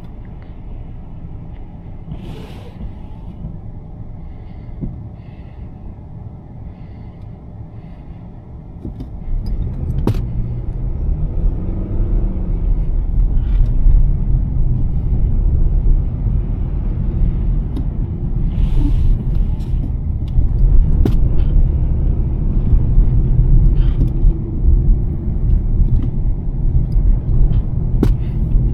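Road and engine rumble of a 2023 Nissan Sentra driving on a snowy road. It gets clearly louder about nine seconds in as the car picks up speed, with a few short clicks scattered through.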